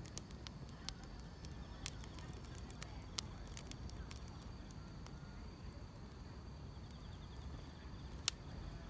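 Wood fire crackling, with irregular sharp pops and snaps, one louder pop near the end, over faint chirping of grass insects.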